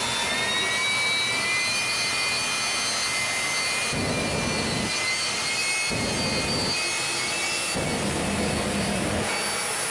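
Jet engine running steadily, a rushing noise with a high whistling whine.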